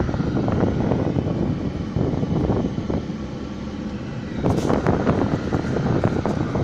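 A road vehicle driving, a steady low rumble of engine and road noise, with a louder stretch about four and a half seconds in.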